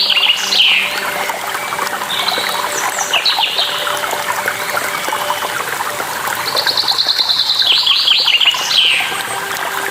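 Songbirds singing in bursts of rapid chirps and trills, three phrases with the longest late on, over the steady rush of running water.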